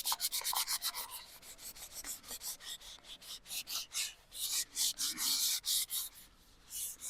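Pencil eraser rubbed over a dried gourd's shell in quick back-and-forth strokes, a dry scratchy rubbing that pauses briefly near the end, removing pencil marks from the carved pattern.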